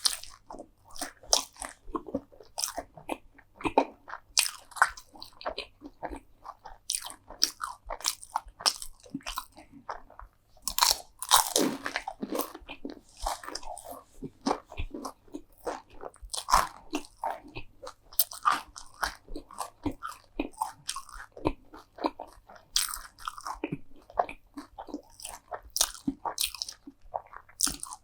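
Close-miked mouth sounds of a person biting and chewing crunchy food: a continuous run of sharp, crackling crunches, with a louder burst of crunching about eleven seconds in.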